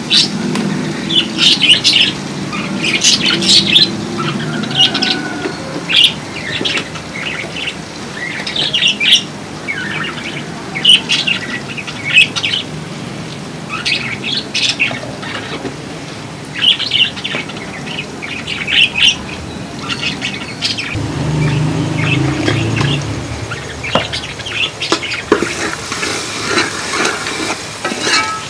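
Small birds chirping, a short burst every second or two. Near the end a hissing sizzle begins as onions fry in oil in the pot.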